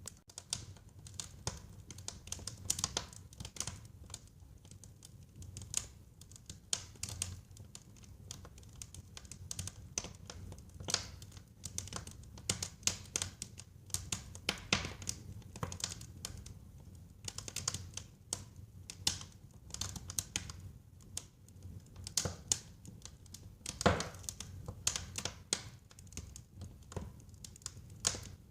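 Wood fire burning in a fireplace: irregular crackles and pops over a low steady rumble of the flames, with one louder pop a little before the end.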